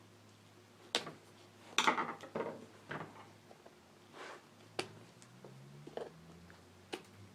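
Metal staples being pried out of a plastic motorcycle seat pan under a new cover: a string of sharp clicks, with a brief cluster of clicks and scraping about two seconds in.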